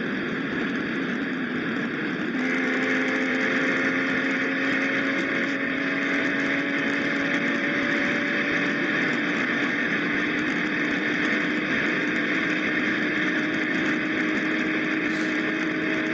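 BMW M340i's turbocharged 3.0-litre inline-six running at speed under a steady rush of road and wind noise. About two seconds in, its note steps up and then climbs slowly as the car accelerates in gear.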